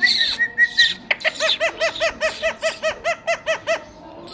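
Indian ringneck parrot calling: a second of harsh, screechy calls, then a quick run of about a dozen short notes on one pitch, about five a second.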